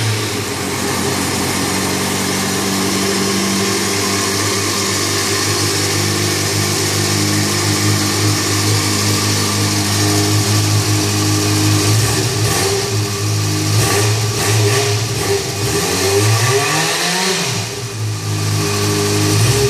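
Yamaha XJ6N's 600 cc inline-four running on its stock exhaust, idling steadily just after being started. Near the end the engine note briefly rises and falls.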